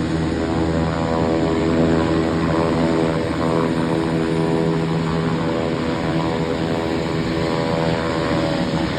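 Beechcraft King Air 350i's Pratt & Whitney PT6A turboprop engines running with propellers turning, a steady pulsing drone, over a faint high turbine whine that slowly rises in pitch.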